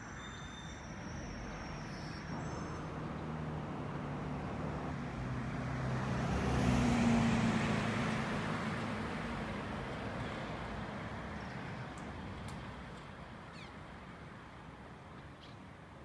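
Peterbilt green-waste collection truck driving past: its diesel engine and tyre noise build up, peak about seven seconds in, then fade away.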